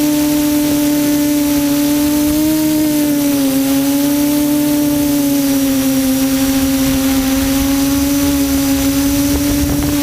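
QAV400 quadcopter's electric motors and propellers whining steadily in flight, the pitch dipping slightly about three seconds in as the throttle changes.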